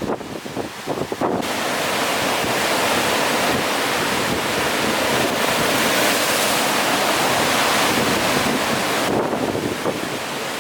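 Strong wind buffeting the microphone, then a long wash of rough sea waves breaking, swelling from about a second and a half in and easing near the end.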